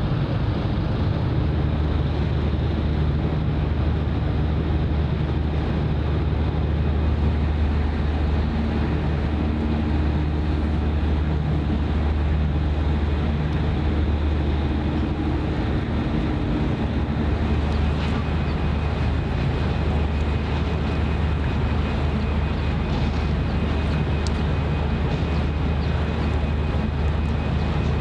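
A steady low engine drone that holds an even level throughout.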